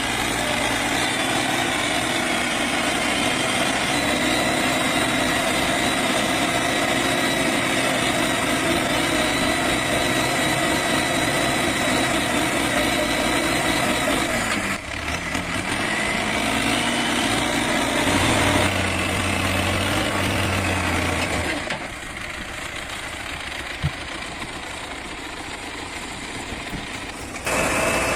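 A small machine's engine running under load while it pulls a train of trailers, with a steady droning note. The pitch dips and climbs again about halfway through, and the sound drops quieter for the last several seconds.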